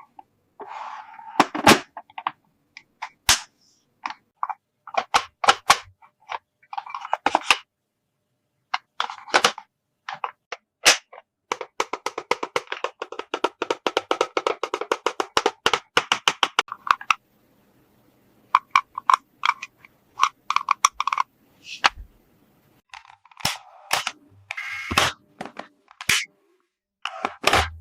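Plastic toy kitchen playset parts clicking and snapping as they are handled, with a long run of rapid clicks near the middle.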